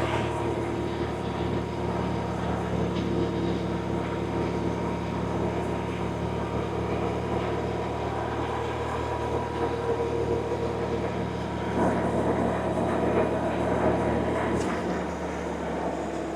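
BMW R1100RT's boxer twin running steadily under way, with road noise. The engine note drops near the end.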